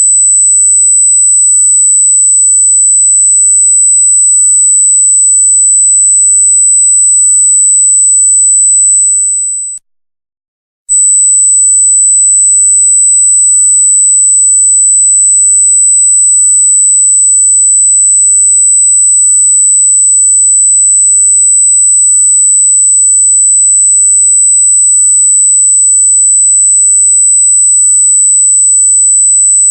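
Loud, piercing high-pitched electronic sine tone held at one steady pitch. It cuts out for about a second about ten seconds in, then resumes unchanged.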